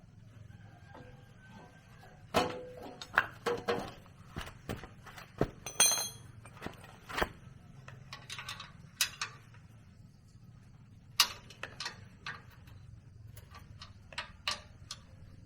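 Irregular clinks and knocks of metal tools and parts being handled during repair work, one ringing metallic clink about six seconds in.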